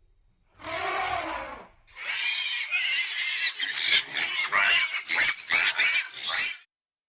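Pig squealing: one short pitched squeal, then a longer run of shrill, overlapping squeals that cuts off suddenly near the end.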